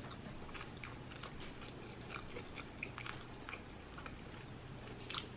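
Close-up chewing of a crispy fried chicken sandwich: irregular crunchy crackles and wet mouth clicks, several a second, over a low steady hum.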